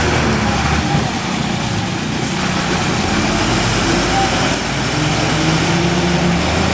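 Heavily loaded Ashok Leyland 16-wheel truck's diesel engine running steadily.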